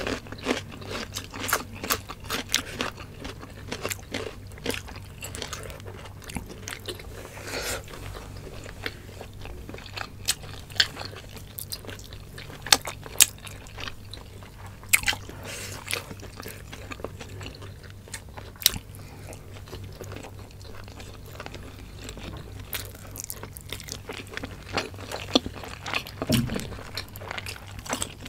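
Close-miked eating: people chewing and crunching food, with sharp irregular crunches and clicks at uneven intervals over a steady low hum.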